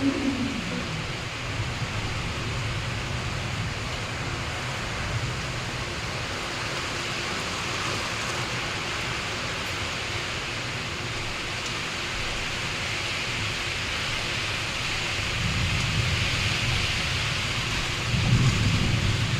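Steady rain with wind, a continuous hiss, with low rumbles of thunder swelling about three-quarters of the way through and again near the end. A low hum slides down and fades away in the first second.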